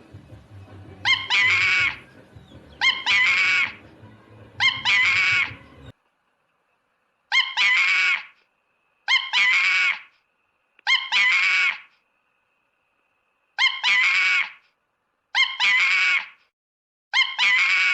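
Monkey calling: one high, screeching call about a second long, repeated in the same shape roughly every two seconds, nine times. A low background rumble under the first few calls stops about six seconds in.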